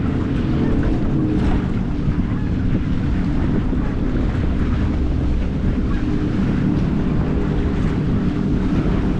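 Steady wind rumbling over the microphone of a head-mounted action camera on a small sailboat, with water washing along the hull beneath it.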